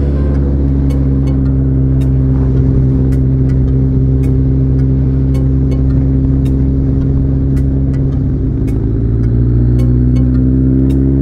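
Suzuki GSF1200's oil-cooled inline-four engine running steadily at cruising speed, its pitch rising a little near the end as it picks up revs.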